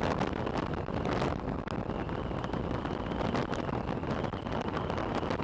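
Wind rushing and buffeting over a helmet-mounted microphone while riding a motor scooter at speed, a steady, heavy rush with irregular gusts.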